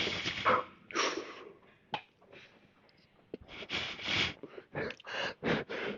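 A man breathing hard, with a series of sharp, noisy exhales from the strain of a heavy weightlifting set. There is a short click about two seconds in.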